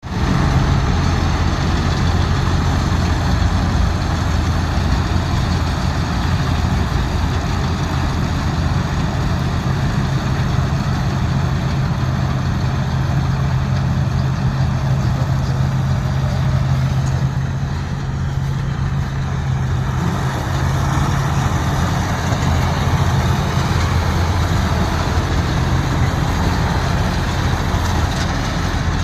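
Tractor diesel engine running steadily under throttle, with a deep even hum; it eases off briefly about two-thirds of the way through, then picks up again.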